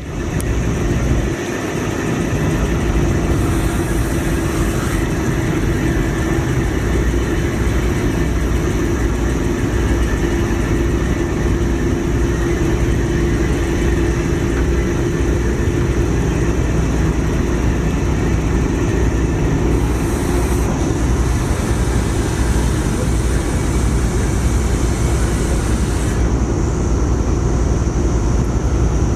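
Car ferry's engines running steadily, heard on board as a constant low rumble with a steady hum.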